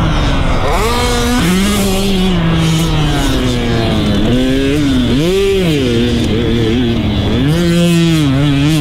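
Dirt bike engine being ridden, revving up and down so its pitch repeatedly rises and falls.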